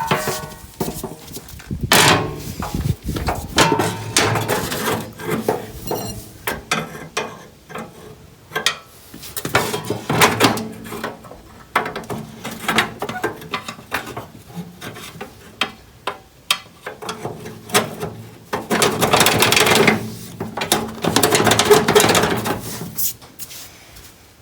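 Irregular knocks, clanks and scrapes of hand tools and parts being handled during repair work on a lawnmower. The sounds are busiest and loudest near the end.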